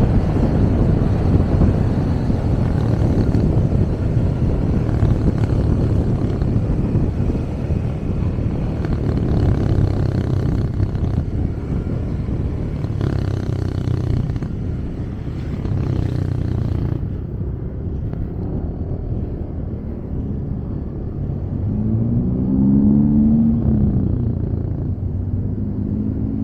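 Wind rush and the running engine of a motorcycle taxi carrying a passenger through city traffic. About two-thirds of the way through the rushing noise drops away as the bike slows, and near the end an engine's pitch rises and falls as it revs.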